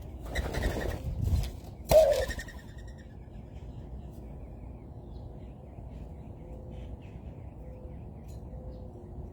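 Birds calling: a short, loud pitched call about two seconds in, preceded by a brief rustling noise, then faint scattered chirps.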